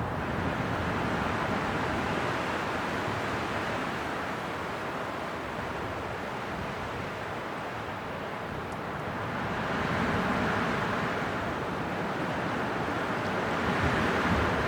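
Winter wind blowing in gusts: a steady rushing that swells about two-thirds of the way through and again near the end.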